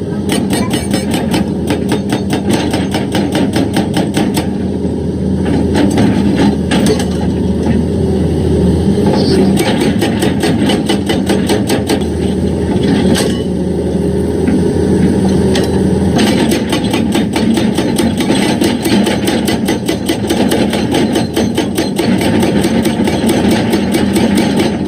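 Excavator diesel engine running under load while a hydraulic rock breaker hammers stone in a rapid, steady stream of blows, several a second.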